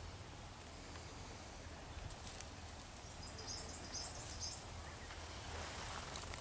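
Quiet outdoor ambience with a small bird singing a quick run of about eight high, repeated notes, each dropping slightly in pitch, starting about three seconds in; a few faint clicks.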